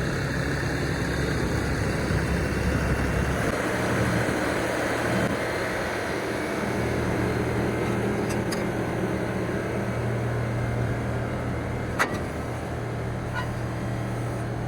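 A vehicle engine running steadily, its low note shifting a few seconds in, with one sharp knock about twelve seconds in.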